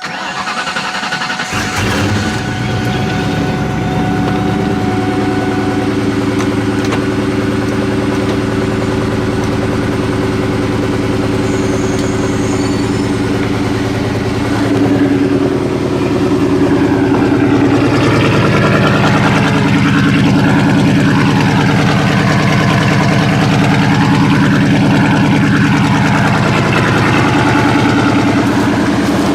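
Vortech-supercharged 4.6-litre V8 of a New Edge Mustang GT with a catless X-pipe and Borla ATAK exhaust, starting up and then idling steadily. The idle note shifts a little about fifteen and eighteen seconds in.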